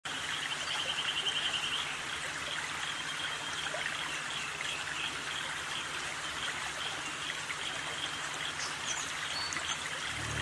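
Steady rush of running water, like a stream, with a bird's rapid high trill for about a second and a half near the start and scattered high chirps after it.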